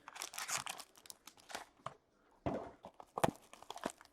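Packaging of trading card boxes being torn open and crinkled, a run of tearing and crackling, with a sharp knock a little after three seconds in.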